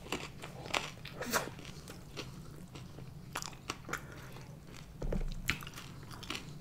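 Close-miked chewing of a barbecue chicken wing: scattered soft, wet clicks and small crunches, fairly quiet.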